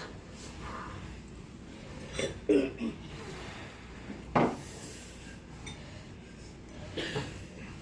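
Eating utensils clicking and knocking against bowls as noodles are eaten. There is a cluster of knocks a couple of seconds in, a single knock about halfway, and a fainter one near the end.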